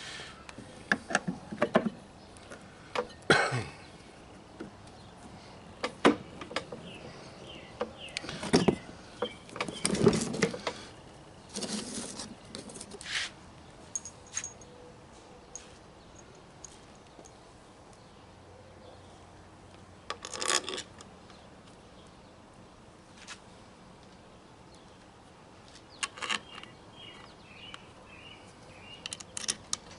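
Hand tools and small metal engine parts clinking and clattering on and off, with quiet stretches between, as a stator is fitted into a small 110cc engine.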